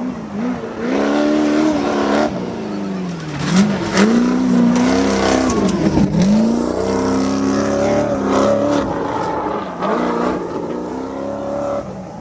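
Trophy truck race engines revving hard, pitch swinging up and down repeatedly as the throttle is worked, with a few sharp cracks near the middle.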